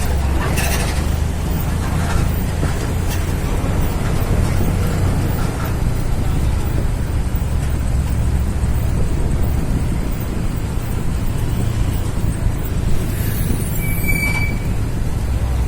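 Heavy Scania P380 truck's diesel engine running steadily under load with a low rumble. About thirteen to fourteen seconds in comes a brief high squeal with a hiss, from brakes.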